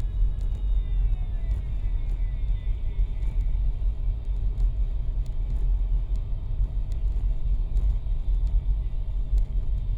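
Steady low rumble of road traffic and a car's engine in motion, with a cluster of high tones falling in pitch over the first few seconds.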